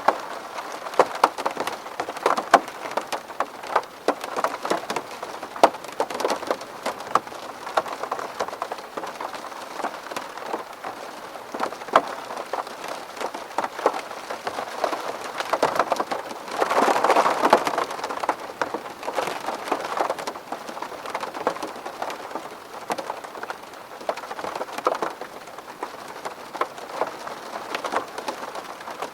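Rain falling on a window: a steady patter of separate drops striking the glass, with a brief heavier rush of water about two-thirds of the way through.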